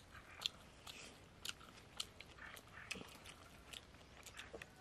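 Faint chewing and biting of food, with irregular short wet mouth clicks.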